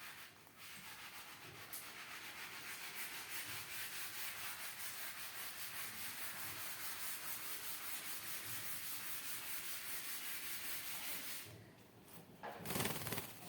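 A hand rhythmically stroking or patting, a soft rubbing at about three or four strokes a second, as a parrot is lulled to sleep. The stroking stops near the end and is followed by a brief, louder rustle.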